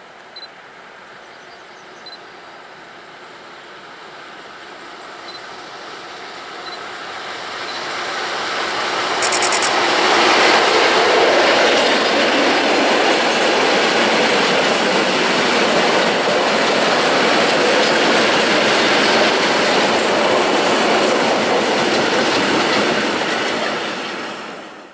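SM42 diesel shunting locomotive hauling a train of ballast wagons past at close range. It grows louder over the first nine seconds or so, then the wagons roll past loud and steady, and the sound cuts off suddenly at the end.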